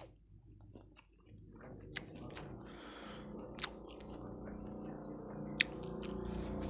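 Close-mic chewing of spicy fried chicken with a few sharp mouth clicks. Underneath, a low hum builds steadily louder.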